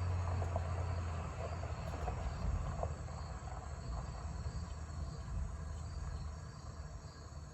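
Crickets chirping in a steady pulsing chorus, over a low rumble.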